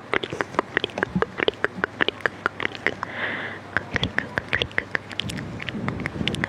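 Close-miked ASMR mouth sounds: rapid, irregular wet clicks and smacks of lips and tongue, with a short breathy hiss about three seconds in.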